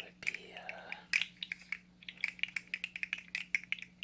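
3D-printed plastic fidget slug being handled close to the microphone: an irregular run of small, sharp plastic clicks and rattles as its jointed segments knock together, with a brief sliding rub in the first second.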